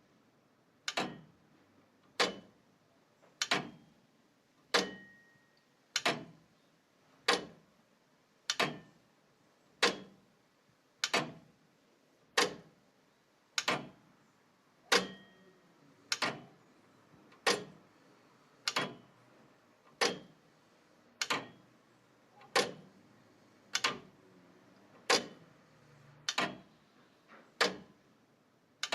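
Slow, regular ticking: a sharp tick about every second and a quarter, each ringing out briefly before the next.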